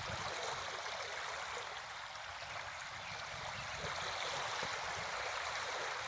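Steady rush of flowing water, an even hiss with no single splashes.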